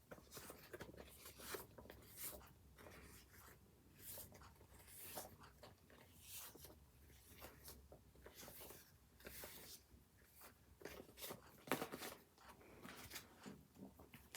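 Faint, irregular rustling and scratching of paper and planner stationery being handled, with one sharper click a little before the end.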